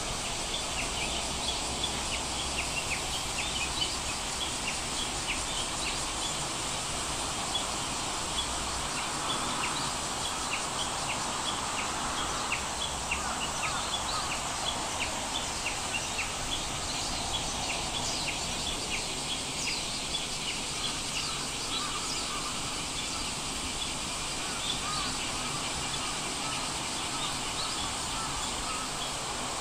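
Steady ambient background noise with many short, high chirps, like small birds calling, scattered all through. A low hum sits under it for the first nine seconds or so, then stops.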